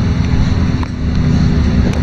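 Interior of a LiAZ-5292.22 low-floor city bus in motion: the diesel engine and drivetrain give a steady low rumble, with a couple of small clicks or rattles.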